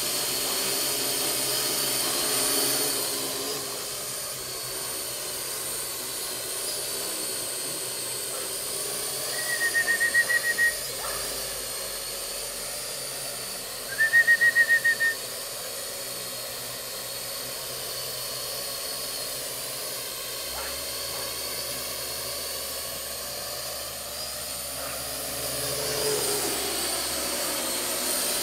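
A Parrot AR.Drone 2.0 quadcopter's electric motors and propellers whirring steadily with a high whine. The whine swells briefly near the start and again near the end. Midway there are two short bursts of rapid, high-pitched beeping, each about a second long and a few seconds apart.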